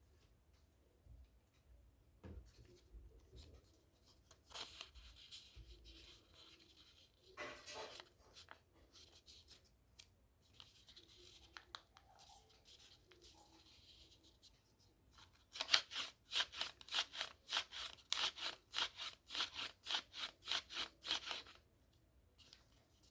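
Paper rustling as a folded origami flapping bird is handled. In the second half comes a run of quick, regular paper flaps, about three or four a second for several seconds, as the bird's paper wings are worked.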